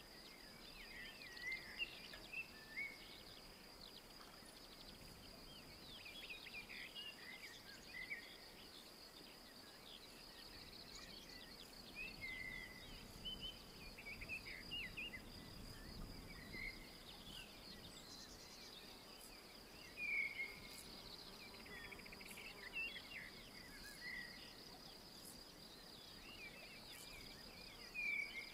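Woodland birdsong: several small birds giving short chirps, trills and whistled notes that come and go, the loudest about two seconds in, around twenty seconds in and near the end. Beneath them runs a steady, high-pitched whine.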